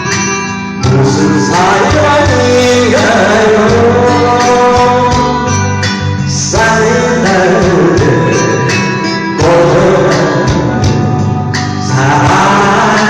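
A man singing a slow Korean pop song with band accompaniment, the voice holding long notes that glide between pitches.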